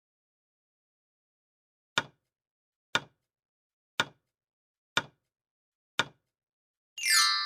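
Five short sharp ticks, one each second, like a quiz countdown timer sound effect. Near the end comes a loud falling sweep that settles into bright ringing tones, a transition sound effect.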